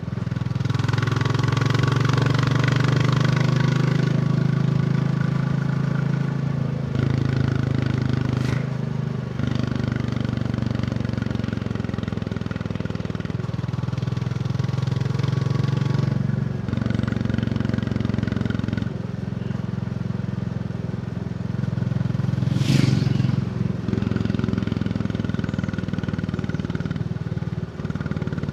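Royal Enfield Bullet 350's single-cylinder engine running under way, its note shifting in steps every few seconds as the throttle and revs change. About two-thirds of the way through there is a brief loud rush.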